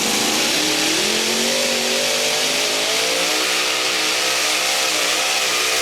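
Modified pulling tractor at full throttle, launching off the line and pulling the sled down the track, loud. The engine note climbs over the first couple of seconds, then wavers as it works under load.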